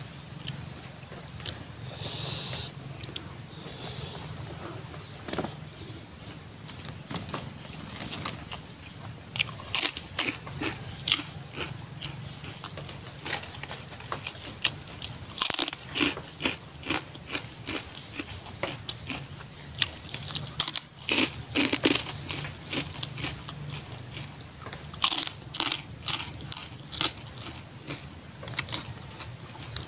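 Close-up chewing with bouts of sharp crunches from crispy pork-skin crackers (kerupuk kulit) eaten with rice. Behind it, a bird repeats a short, high, rising stepped call about every five seconds over a steady high whine.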